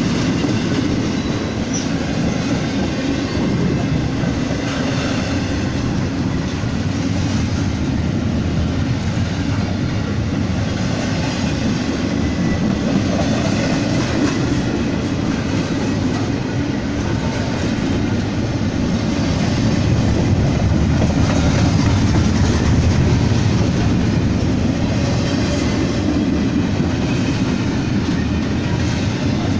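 A train rolling past at track side: a steady, loud noise of steel wheels on rail that swells slightly about two-thirds of the way through.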